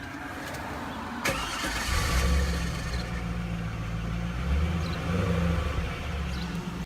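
2000 Pontiac Trans Am's LS1 V8 being started: a starter click about a second in, then the engine catches, flares briefly and settles into a steady, deep idle.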